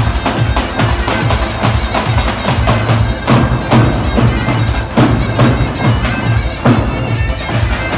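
Folk music led by a loud, bagpipe-like reed wind instrument, with a steady drum beat underneath.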